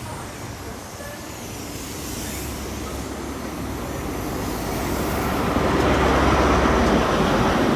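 GWR High Speed Train with Class 43 diesel power cars moving through the platform, its engine and wheel noise growing steadily louder as the rear power car nears. A low engine hum comes in about five seconds in.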